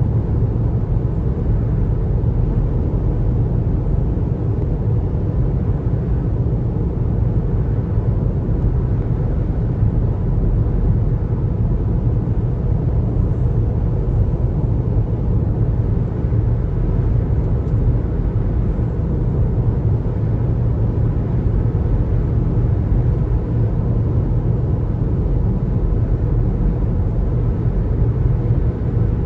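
Car driving along, a steady low rumble of tyre and engine noise that stays even throughout.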